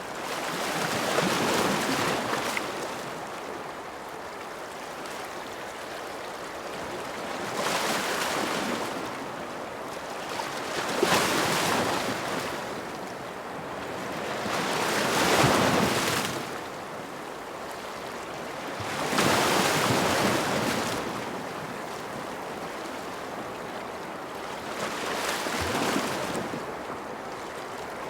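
Ocean surf: waves breaking and washing up in swells every few seconds, over a steady hiss of water.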